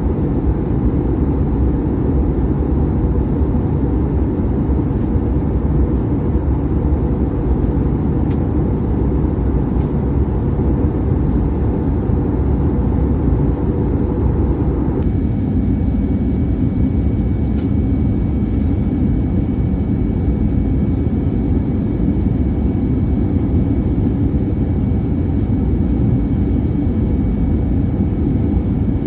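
Cabin noise of an Airbus A320neo, with Pratt & Whitney geared turbofans, coming in to land: a steady deep rumble and rush of airflow. About halfway through, the upper part of the noise drops and a faint steady high whine sets in.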